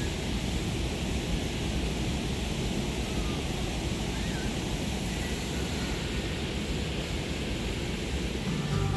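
Steady rushing noise with a fluctuating low rumble. Guitar music comes in near the end.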